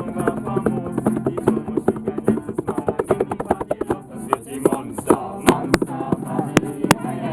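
Acoustic guitar strumming chords in a campfire sing-along. Sharp percussive hits come in over the strumming in the second half.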